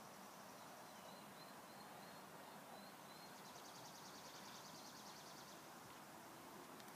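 Near silence: faint outdoor ambience with distant small birds calling, a run of short high chirps followed by a rapid high trill lasting about two seconds.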